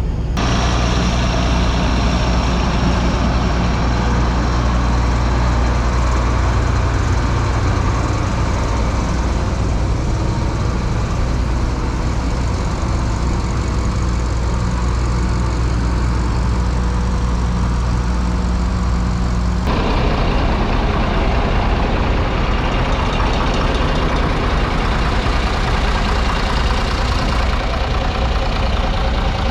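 A farm tractor's engine running steadily at idle close by, a low, even hum. About twenty seconds in, the sound changes abruptly to a rougher, noisier engine sound.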